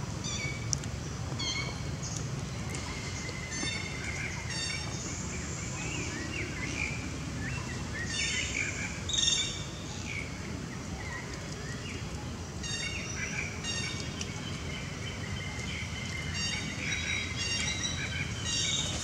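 Birds calling in the forest: short chirps and quick trilled notes repeated at intervals, with a louder call about halfway through, over a steady low background.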